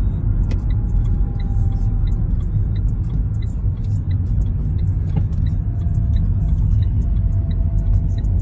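Steady low rumble of a road vehicle's engine and tyres heard from inside the cabin as it drives slowly, with a regular light ticking of about two to three ticks a second.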